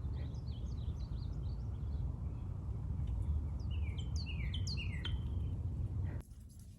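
Small songbird chirping in quick series of short, downward-sliding notes, in two bouts with the second louder, over a steady low rumble of outdoor background noise that drops away about six seconds in.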